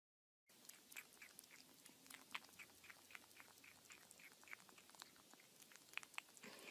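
Faint run of quick, short clicks, about three or four a second, starting about half a second in.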